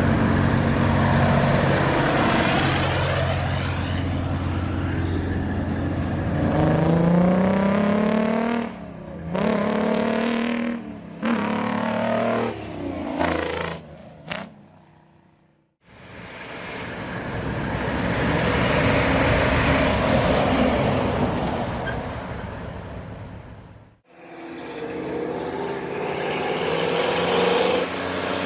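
Old trucks driving past: an engine revs up with rising pitch and breaks off several times as it shifts through gears, then fades out. A second truck's engine and tyres swell and die away as it goes by, and the sound cuts off suddenly before another engine comes in.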